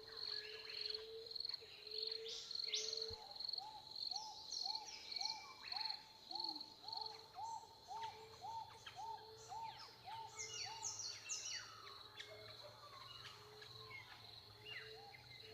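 Faint recorded birdsong from several birds: quick high chirps and falling notes over a lower call repeated evenly about twice a second, with a steady thin high tone underneath.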